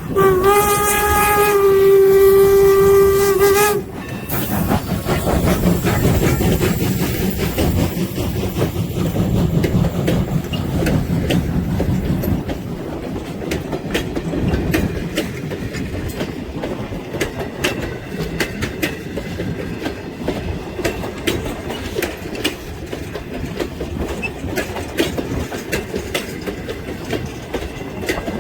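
Norfolk & Western 475, a 4-8-0 steam locomotive, blows one long blast on its steam whistle for about three and a half seconds, which cuts off sharply. The locomotive then passes loudly, and its train rolls by with wheels clicking over the rail joints.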